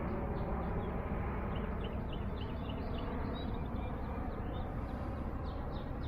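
Birds chirping in quick runs of short high notes, starting about a second and a half in, over a steady low background noise.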